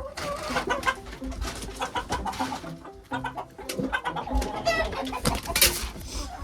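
Chickens clucking and squawking in a flock, many short calls overlapping, with scattered short scratchy noises among them.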